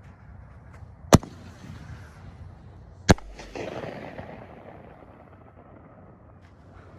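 Aerial artillery-shell firework: a sharp bang as it launches, then a second sharp bang about two seconds later as the shell breaks, followed by a rushing tail that fades over a couple of seconds. Steady freeway traffic noise underneath.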